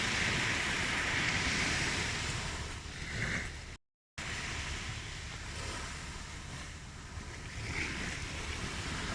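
Ocean waves washing in and rolling back, swelling and easing. The sound cuts out completely for a split second about four seconds in, then resumes.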